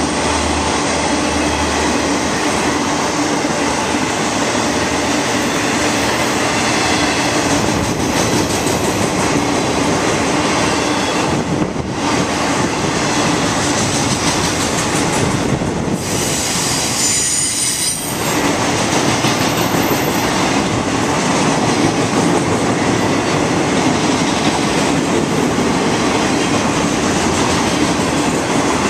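Freight train cars carrying intermodal trailers and containers rolling past close by: a loud, steady rumble of steel wheels on rail. A few brief lulls come through, and a high wheel squeal rises around the middle.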